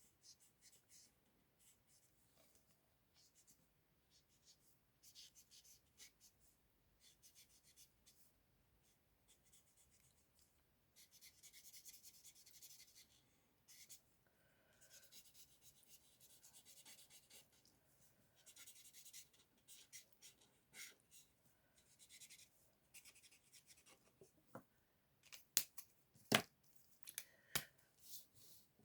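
Stampin' Blends alcohol marker nibs stroking across cardstock: faint, scratchy runs of colouring strokes, with a few sharp clicks near the end.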